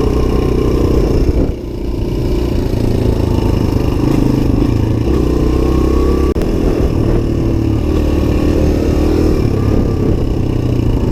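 Suzuki DR-Z125's single-cylinder four-stroke engine running while the bike is ridden. Its note drops briefly about a second and a half in, then holds fairly steady with small rises and falls in pitch.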